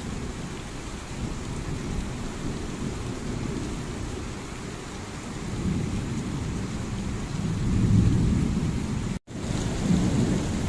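Steady rain falling under a deep low rumble that swells louder twice, midway and later on. The sound cuts out for an instant near the end, then resumes.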